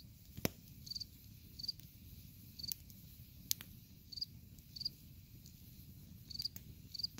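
Wood fire burning in a metal fire pit, crackling, with a sharp pop about half a second in and another about three and a half seconds in. Crickets chirp in short high chirps repeating every half second to a second or so.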